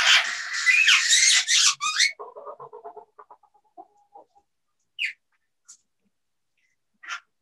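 Parrot screeching harshly for about two seconds, followed by softer low chatter and three brief squawks.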